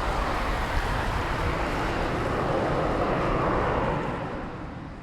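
Jet noise from a Dassault Falcon 7X's three turbofan engines at takeoff power as the business jet departs: a steady rushing roar that fades away near the end.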